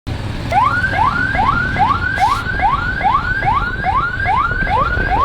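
Novelty electronic horn on a motorbike, playing a 'funny sound': a rising whoop repeated about two and a half times a second, like a toy siren, over the rumble of the ride.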